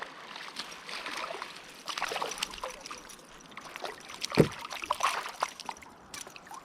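Water splashing and trickling against a kayak, broken by irregular clicks and splashes, with one sharp knock about four seconds in.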